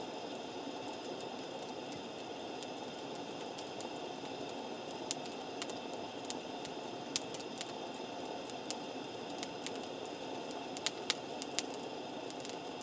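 Wood campfire burning with a steady hiss and irregular sharp crackles and pops, more of them in the second half.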